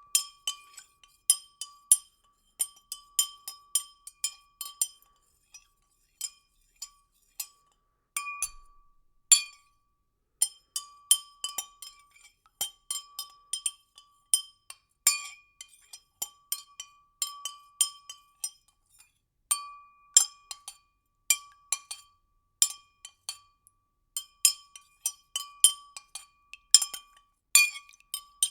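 A spoon stirring liquid in a glass, striking the glass in quick, irregular clinks that each ring briefly at a clear pitch.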